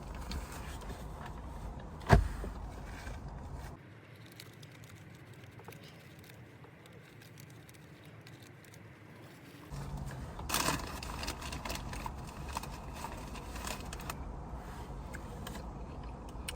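Breeze buffeting the microphone with a low rumble that drops away for several seconds in the middle and then returns. There is a sharp knock about two seconds in and a patch of crackling handling noise around ten to eleven seconds in.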